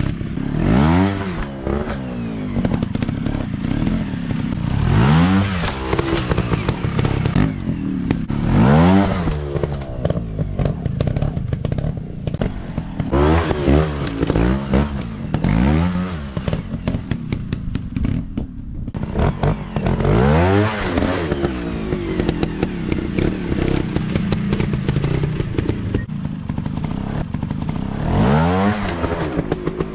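Small trail motorcycle engines revving up and dropping back in repeated bursts, every three to four seconds or so, as the bikes are throttled through a dirt course.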